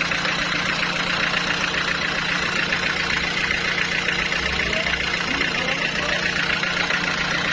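Sawmill machinery running steadily: a constant low hum with a dense, fast mechanical rattle over it, unchanging throughout.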